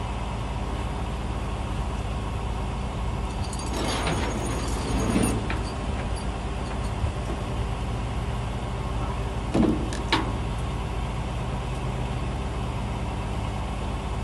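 Vehicle engine idling steadily, with a burst of metallic clattering about four seconds in and two sharp clanks near ten seconds.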